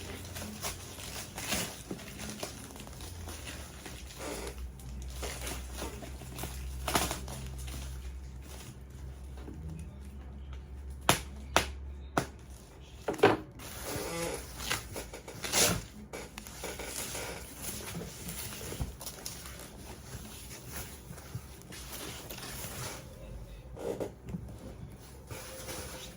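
Cardboard box and packaging being handled: rustling and scraping, with a cluster of sharp knocks and clicks about halfway through.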